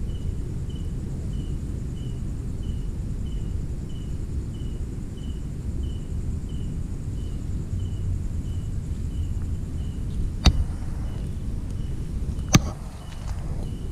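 An insect chirping steadily, about twice a second, over a low rumble of wind. Near the end come two sharp clicks, two seconds apart.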